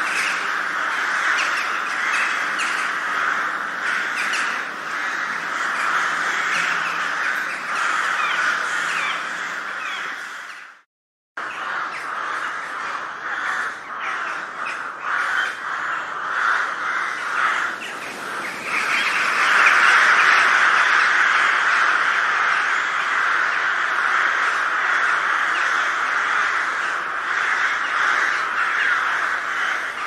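Many crows cawing together in a dense, overlapping chorus. About eleven seconds in it fades out into a brief silence, then a second crow recording starts, and the calling grows denser and louder about two-thirds of the way through.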